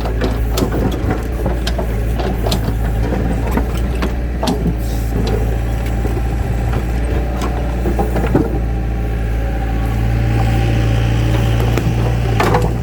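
An engine running steadily with a low hum, with scattered knocks and clatter over it; the hum grows a little louder about ten seconds in.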